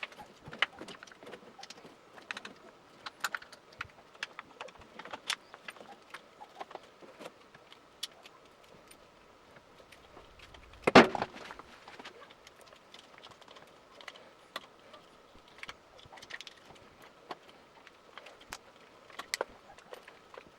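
Scattered light metallic clicks and clinks of hand tools and parts being handled while a motorcycle handlebar is replaced, with one louder knock about eleven seconds in. A faint steady high hum sits underneath.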